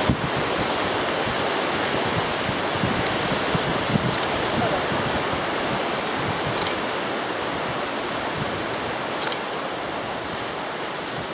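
Strong gusty wind buffeting the microphone: a steady rushing noise with irregular low thumps, easing slightly toward the end.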